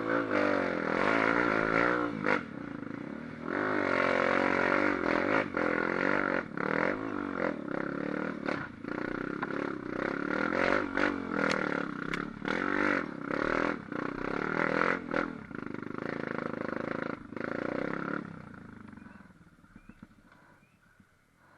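An engine revving up and down over and over with some clattering, then dying away in the last few seconds.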